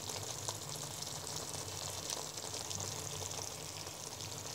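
Chicken pieces and masala frying in oil in a karai, sizzling steadily with fine crackling.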